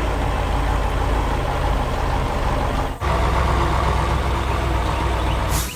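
Heavy construction vehicle's diesel engine running steadily, a sound effect that breaks off briefly about halfway and resumes. It ends with a short hiss.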